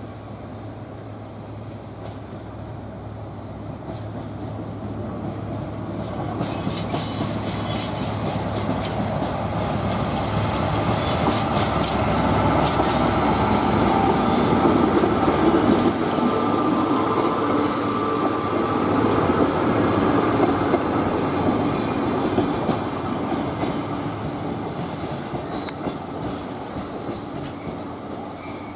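A train running through the station, growing louder to a peak about halfway and then fading, with thin high-pitched wheel squeal near the end.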